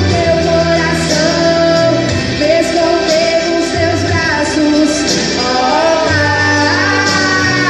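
Two female voices singing a gospel praise song (louvor) with instrumental accompaniment and a steady bass line.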